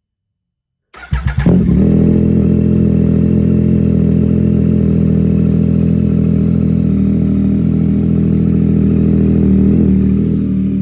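Yamaha MT-09 SP inline-three engine starting through an Austin Racing aftermarket exhaust with an airbox-delete filter: it catches about a second in with a few uneven pulses, then settles into a loud, steady idle.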